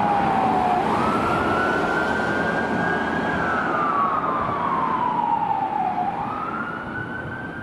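Fire apparatus siren wailing as it passes, its pitch climbing quickly, holding high, then sliding slowly down before climbing again, over the rumble of the truck's engine and road noise.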